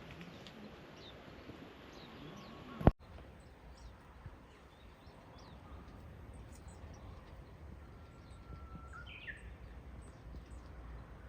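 Small songbirds, Japanese white-eyes, giving short high chirps throughout, with one longer whistled call held on a note and then rising near the end. A single sharp click about three seconds in.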